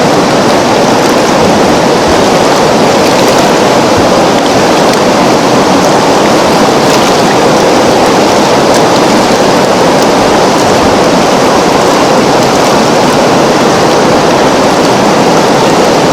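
River water flowing, a steady continuous rush without breaks or changes.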